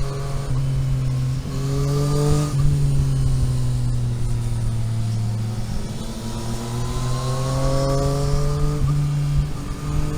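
Car engine under way, pulling and easing off: its pitch climbs, drops at a gear change about two and a half seconds in, falls away, then climbs again in the second half, with another change near the end.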